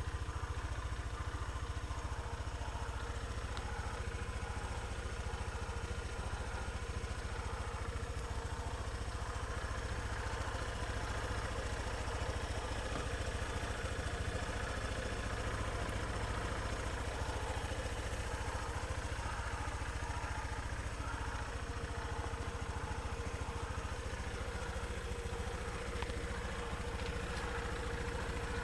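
Honda PCX125 scooter's single-cylinder four-stroke eSP engine idling steadily.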